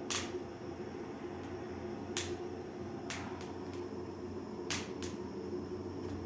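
Firewood crackling in a newly built brick fireplace: a handful of sharp, irregular pops over a steady background hum. The wood is damp and slow to catch.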